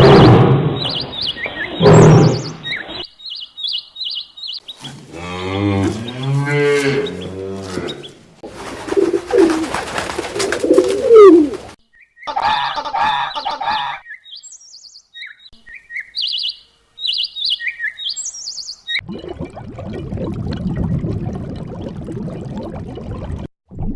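A string of different animal calls one after another. Short high bird chirps come in two scattered runs, in between are low pitched calls that bend up and down, and loud noisy bursts open the stretch.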